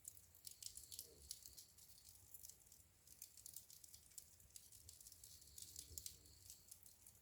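Wood fire in a fireplace crackling faintly, with many small irregular pops and snaps.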